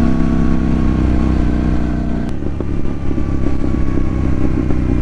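KTM 790 Duke parallel-twin engine heard from the rider's helmet while riding, a steady engine note. About halfway through there is a sharp click, and the note breaks up into an irregular crackle, the popping that this bike's exhaust makes.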